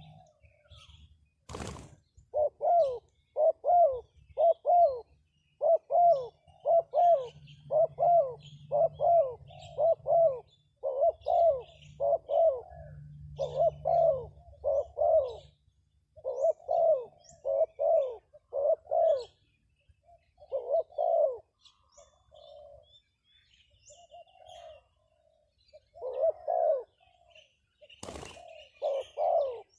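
A bird calling a short, low, arched note over and over, about two a second, with brief pauses in the run, while fainter high chirps sound above it. Two sharp clicks, one near the start and one near the end.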